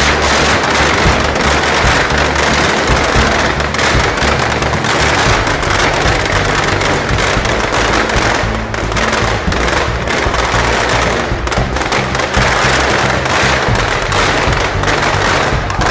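Dense, continuous crackling of firecrackers over background music with a steady low bass line.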